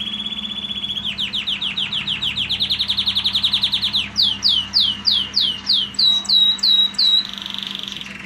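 Red factor canary singing a string of repeated phrases. It opens with a steady fast trill, moves into a rapid run of falling notes, then slower sweeping notes, and ends in a short buzzy roll.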